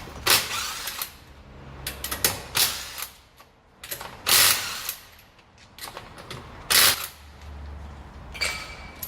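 Metal tools working on car parts: four loud clanks spread over the stretch, with smaller clicks and rattles between them, and a brief ringing note near the end.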